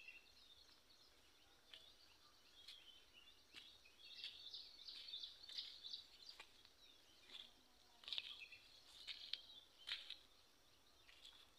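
Faint chirping and twittering of small birds, coming in short clusters that grow busier from about four seconds in.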